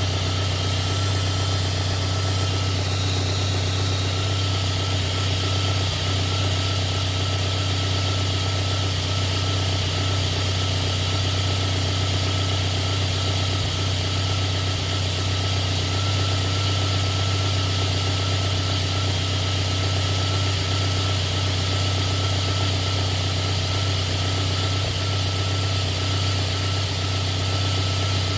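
Toyota Celica's 3S-GTE turbocharged four-cylinder engine idling steadily, with a faint steady high whine over it. The engine has an intermittent lean misfire, which the owner says is barely audible in the recording.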